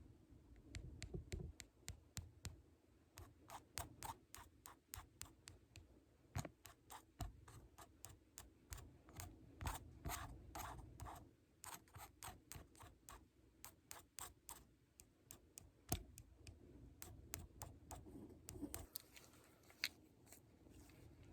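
ASMR tapping: a long run of light, crisp taps and clicks, several a second, with a short pause about two-thirds of the way through and a brief scratchy rustle near the end.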